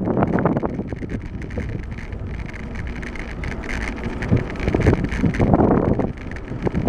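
Wind buffeting the microphone of a camera carried on a moving bicycle, a gusty rushing noise swelling and easing, with faint rattles and clicks from the bike.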